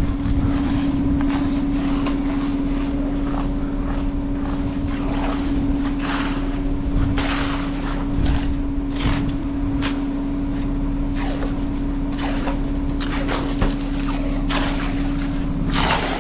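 Concrete mixer truck's diesel engine running at a steady speed. Irregular short bursts of hissing or scraping noise come and go over it.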